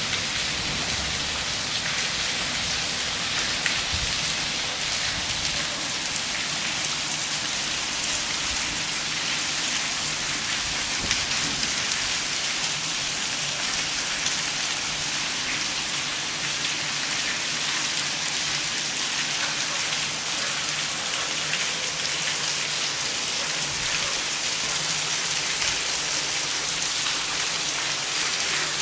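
Hailstorm: hail and rain pelting down in a dense, steady hiss.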